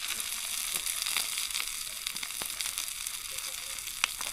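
Steak and cherry tomatoes frying in oil in a pan over a wood campfire: a steady sizzle with scattered pops and crackles.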